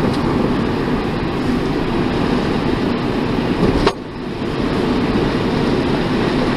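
Steady road and engine noise heard inside a moving car's cabin, with a click and a brief drop in level about four seconds in.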